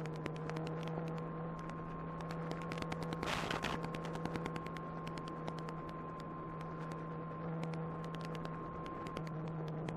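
Electric motor of an E-flite Apprentice 15e RC airplane running at steady throttle in flight, a constant hum with a higher whine over it, overlaid by rapid crackling static clicks and a short burst of hiss about three and a half seconds in.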